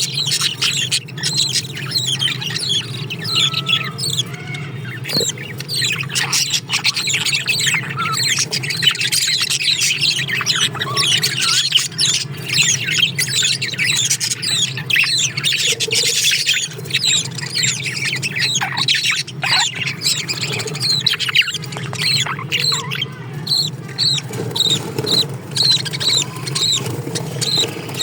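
Caged pet birds chirping and squawking continuously, many short high calls overlapping, becoming a more regular run of chirps near the end, over a steady low hum.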